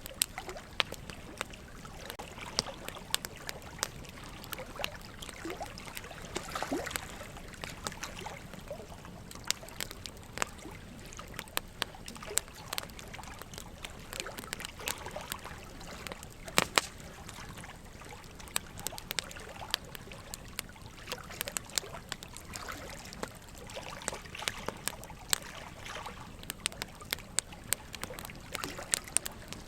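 Wood fire crackling with frequent sharp, irregular pops, over steady trickling water; one pop about two-thirds of the way through is louder than the rest.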